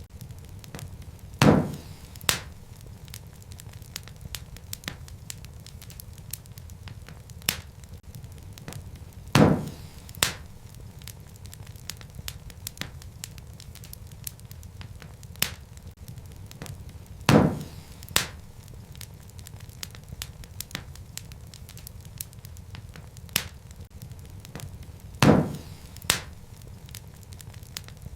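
Wood fire crackling in a fireplace: a low steady rumble of flames under frequent small snaps, with four loud pops about eight seconds apart, each followed by a second pop under a second later.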